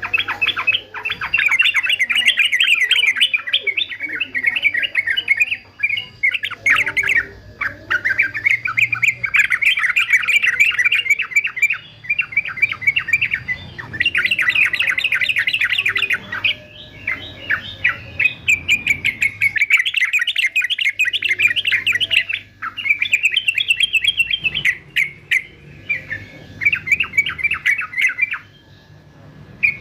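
Male yellow-vented bulbul singing a fast, chattering song in phrases of one to three seconds, one after another with only short breaks.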